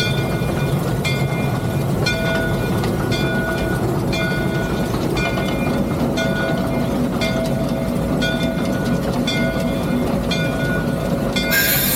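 Three-truck Shay geared steam locomotive running, heard from the cab: a steady rumble with a regular clank about once a second, faint ringing tones through it, and a short loud hiss near the end.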